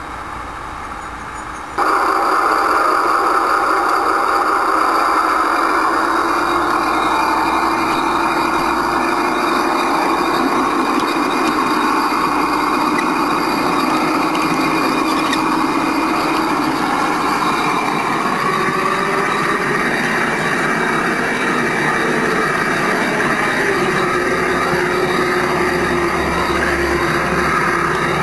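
Simulated diesel shunter engine sound from a battery-electric 5-inch gauge Maxitrak Jubilee locomotive's onboard sound system, idling and then stepping up abruptly about two seconds in to a much louder, steady working note as the locomotive hauls its load.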